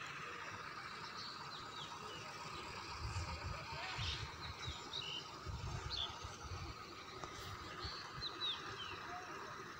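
Outdoor ambience with birds chirping: short high chirps scattered through, over a steady hiss. Irregular low rumbles come in from about three seconds in and fade out by about seven seconds.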